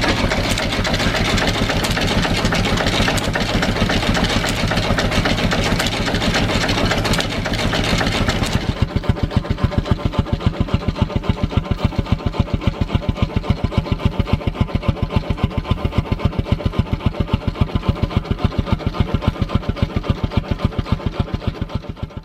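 Stationary engine running. For the first eight seconds or so a louder, dense mechanical clatter covers it; after that comes an even, steady beat of about four to five firings a second, which fades out at the very end.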